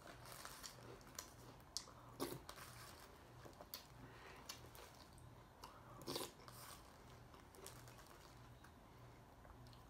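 Faint crunching and chewing of dry cereal, with scattered small crackles and clicks; the loudest crunches come about two and six seconds in.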